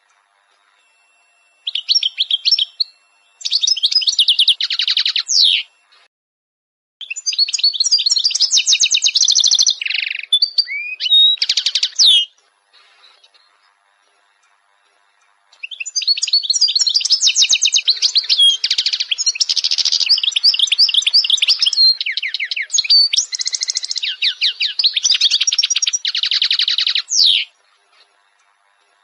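Small birds chirping and twittering in fast, repeated runs. The calls come in four bursts with short silences between them, and the last burst is the longest, lasting about twelve seconds.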